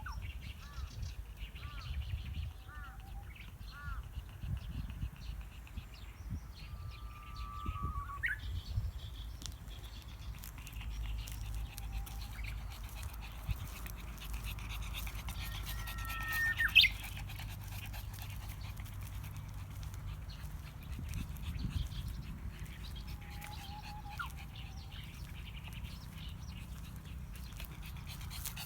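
A Japanese bush warbler sings its "hoo-hokekyo" song several times, each a held whistled note that breaks into a quick rising flourish. The loudest comes about two-thirds of the way through. Other small birds chirp, and a low rumble runs underneath.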